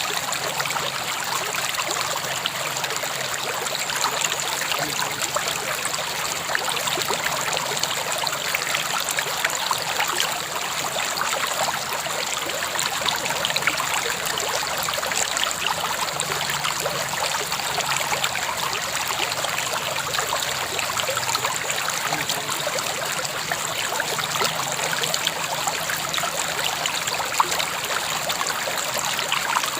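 River water flowing steadily over stones, a continuous splashing and trickling rush.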